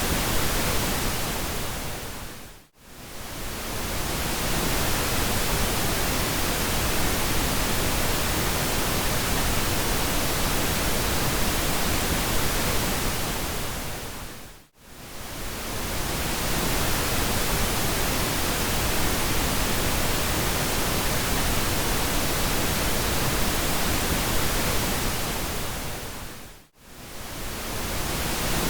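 Steady pink noise, an even full-range hiss. It fades down to near silence and swells back three times, about every twelve seconds.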